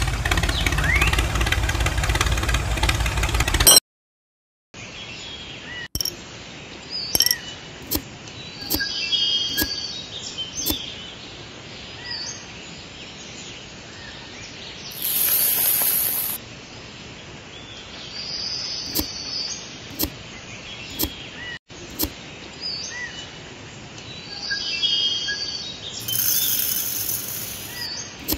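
A loud noise fills the first four seconds and cuts off abruptly. After a brief gap, birds chirp now and then over a steady outdoor background, with scattered sharp clicks and two short hissing bursts.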